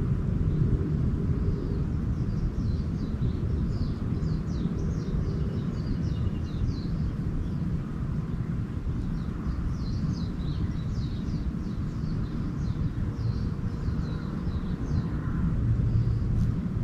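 Small birds chirping in quick runs of short high notes, in two spells, over a steady low rumble.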